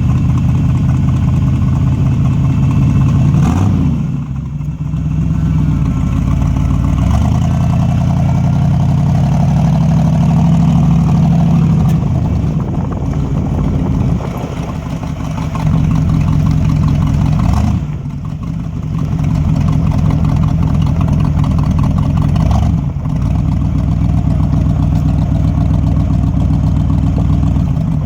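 1974 Ford F-100's 390 FE V8 running through dual exhaust with glass-pack mufflers, a deep steady burble whose pitch rises and falls several times as the engine speed changes, with brief drops in level about 4, 14 and 18 seconds in.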